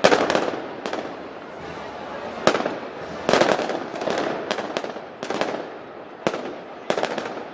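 A string of loud gunpowder bangs, about ten sharp cracks at uneven intervals, each with an echoing tail.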